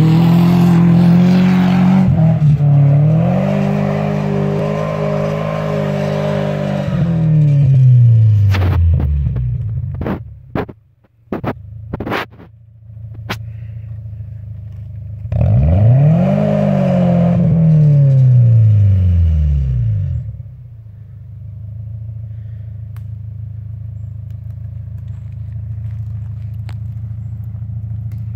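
Subaru station wagon's flat-four boxer engine revving hard under load as it climbs a loose dirt slope. The revs hold high for several seconds, then drop away, and a few sharp clicks and knocks follow. The engine revs up again and falls back, then settles into a steady idle.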